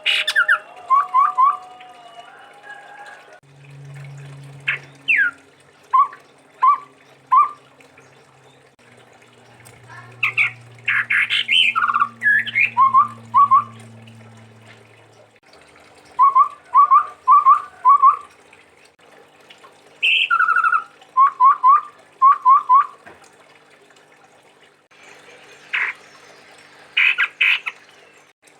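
Chestnut-rumped babbler singing: phrases of short, quick falling whistled notes repeated in runs of three to five, with some higher, harsher notes in between and pauses between the phrases.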